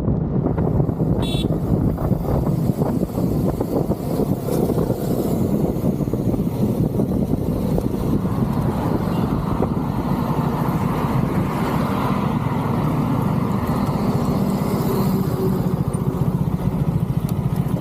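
Motorcycle engine running steadily under way, with road and wind noise around it. A brief high beep sounds about a second in.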